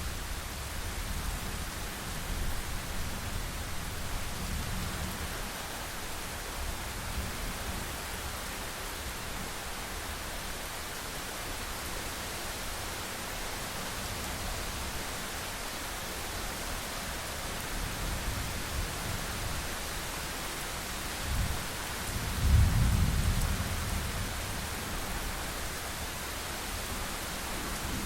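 Steady rain with rolling thunder. The low rumbling comes and goes, and one loud thunder peal comes about two-thirds of the way through.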